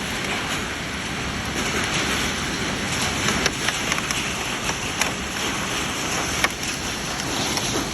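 Heavy hailstorm with rain: a dense, steady hiss of falling rain and hail, with a few sharp knocks of single hailstones striking hard surfaces.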